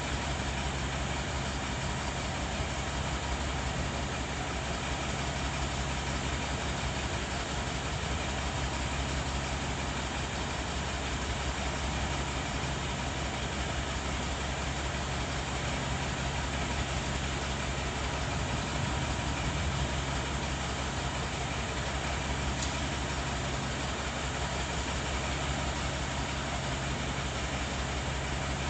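Train on the rail line, a steady low mechanical hum with a few held low tones that stays unchanged throughout.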